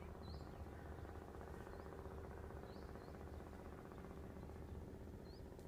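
Faint bird chirps: short, upward-hooked notes, one now and then, about four in all. Under them runs a steady low background hum.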